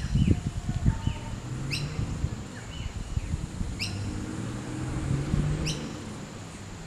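A bird gives a sharp, quickly falling call four times, about every two seconds, with softer chirps between. Under it, the 2.8 L straight-six turbo-diesel of a Nissan GU Patrol idles low and steady, with a few louder rumbles in the first second.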